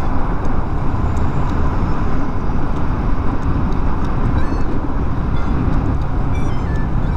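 Steady low rumble of motor traffic and riding noise picked up by a motorcycle rider's microphone, with a few faint, short, stepped high beeps.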